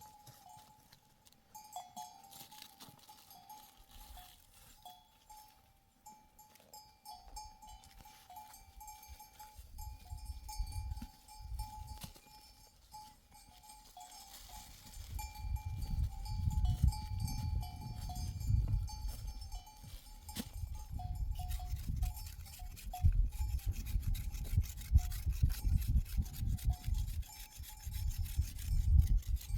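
Bells on grazing sheep and goats clinking and ringing over and over as the animals move. A low rumble comes in about halfway through and grows louder toward the end.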